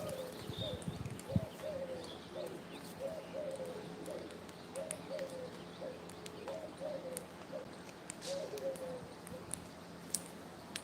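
Pigeon cooing: a run of short, low, falling coo notes repeated over and over, stopping a little before the end.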